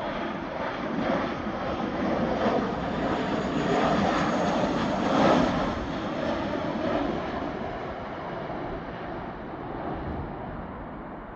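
Boeing 737-700 jet airliner landing, the noise of its CFM56-7B engines swelling to its loudest about five seconds in, then fading away.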